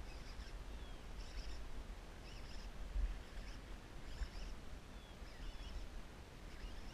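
Faint, scattered chirps of small birds over a steady low rumble on the microphone, with a soft thump about three seconds in.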